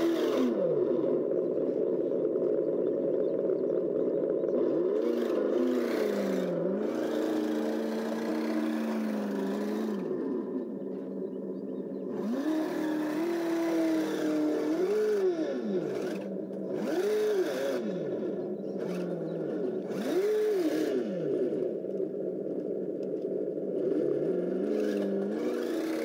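Simulated engine sound from an ESS sound module in a 1/12 Kyosho Blizzard DX radio-controlled snowcat, running steadily and revving up and back down in short swells several times.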